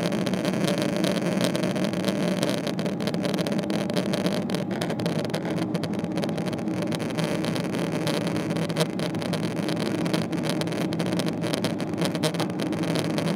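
Steady engine and air noise inside the cabin of a Boeing 777-300ER, its GE90-115B turbofans running at a constant setting, heard as an even, unchanging rumble and hiss.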